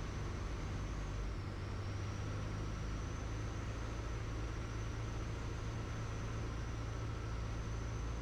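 Piper Tomahawk's four-cylinder Lycoming engine and propeller droning steadily in flight, heard from the cockpit.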